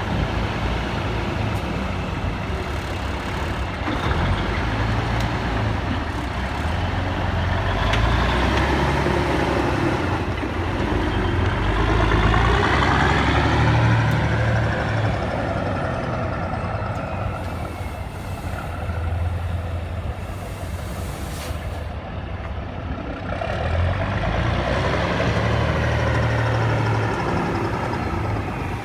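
International Fleetstar 2070A truck engine running, revved up and let back down a few times, its pitch rising and falling.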